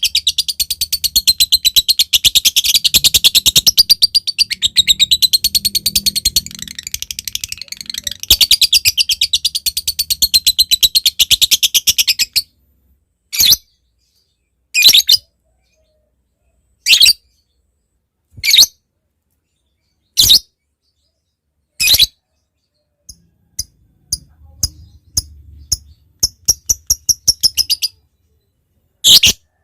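Lovebird singing a long, continuous, rapid high-pitched chatter (the ngekek) that breaks off abruptly about twelve seconds in. It follows with single sharp calls about every two seconds, then a run of short quick ticking notes (ngetik) and another sharp call near the end.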